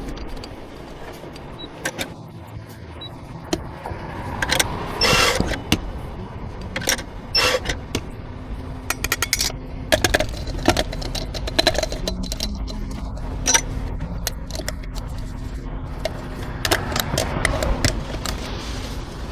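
Irregular clinks, taps and knocks of cups and metal equipment being handled, with a steady low hum underneath and a longer hissing burst about five seconds in.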